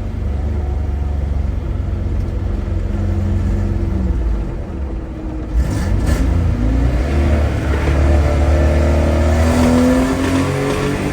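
1993 Toyota pickup engine running through its new stainless steel cab-back exhaust and muffler. The note dips about four seconds in, a short click follows, then the pitch climbs steadily as it revs up toward the end.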